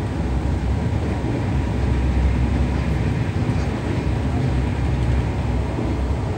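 Steady low rumble of an AC double-decker express coach running at speed, its wheels rolling on the rails, heard from inside the upper deck.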